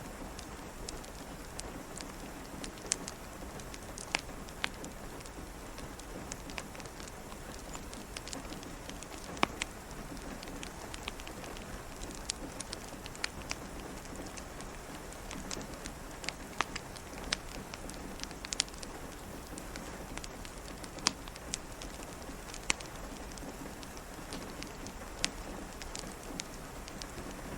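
Steady rain pattering, with a wood fire crackling over it in sharp, irregular pops and snaps.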